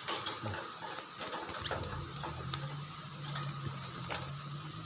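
Light clicks and rattles of a bird cage being handled as a bird is taken out, over a low steady hum.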